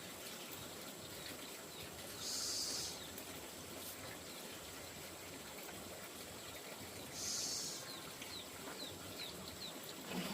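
Outdoor rural ambience with scattered faint bird chirps and two short, high insect buzzes, one about two seconds in and one about seven seconds in.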